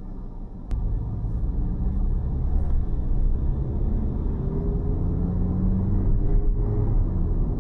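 Car driving on city roads: a steady low rumble of road and engine noise that gets louder just before a second in, with a faint engine tone that rises slowly.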